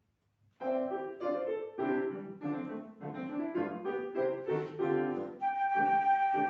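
Flute and piano playing a lively piece that starts suddenly about half a second in with short repeated notes; near the end the flute holds one long note over the piano.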